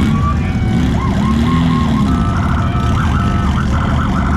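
Emergency-vehicle siren wailing, then switching about two seconds in to a fast repeating yelp, over the steady low rumble of vehicle engines.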